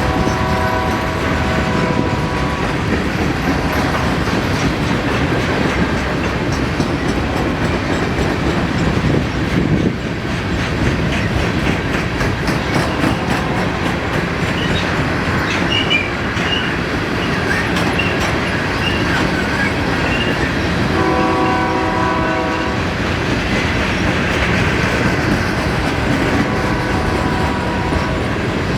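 Freight train rolling past with steady wheel noise and clacking wheels. Its locomotive air horn sounds a chord briefly at the start, again about two-thirds of the way through, and once more near the end.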